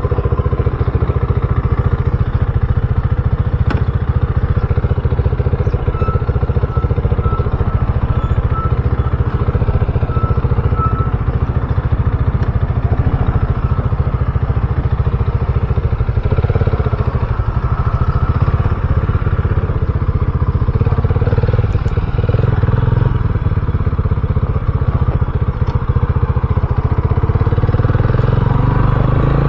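RUSI Classic 250 motorcycle running steadily under way.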